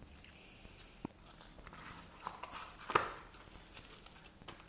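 Quiet handling noise: a few light knocks and rustles, with a sharp click about a second in and the loudest knock about three seconds in.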